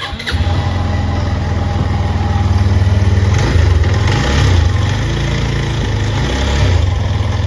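Motorcycle engine catching just after the start and then running at a steady idle, with a few brief rises in revs around the middle.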